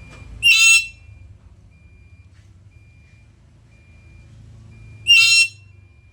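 Black-capped lory giving two short, loud, shrill calls about four and a half seconds apart.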